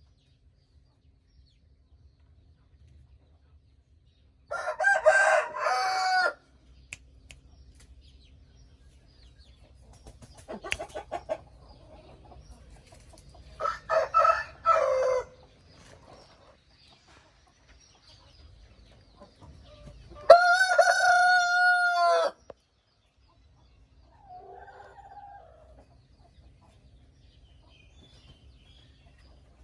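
Rooster crowing three times with pauses between, the last crow the longest and held at a steady pitch. Shorter, softer chicken sounds come in between.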